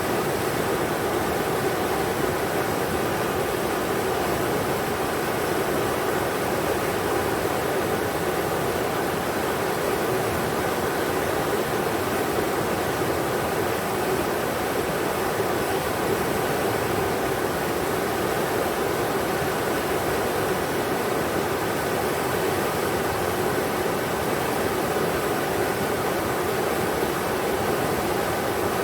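Englishman River rushing, a steady, even roar of fast water with no breaks.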